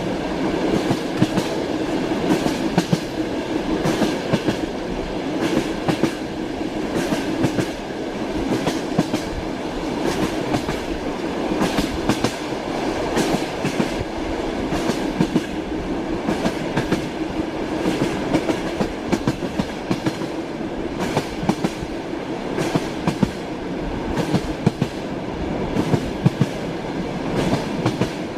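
Train running on the rails: a steady rumble with the wheels clattering, sharp clicks coming irregularly throughout.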